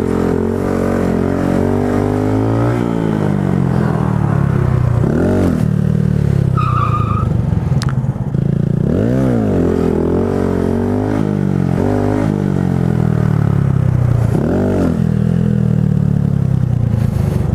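Motorcycle engine running and being revved, its pitch climbing and falling through the gears. There are several quick sharp throttle blips, and a brief high squeal about seven seconds in.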